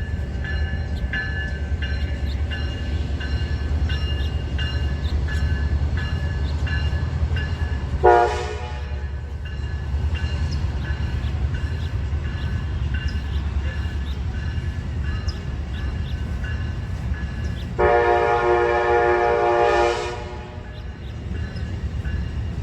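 Diesel train running past with a steady low engine rumble and regular ticking. Its locomotive air horn sounds a short chord blast about eight seconds in and a longer blast of about two seconds near the end.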